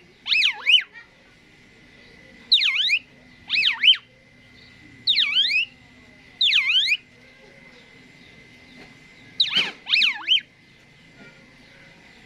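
Asian pied starling (jalak suren) giving a series of loud whistled calls: six short phrases, each swooping down and then back up in pitch, about one a second with a pause of a couple of seconds before the last. A faint steady high tone runs underneath.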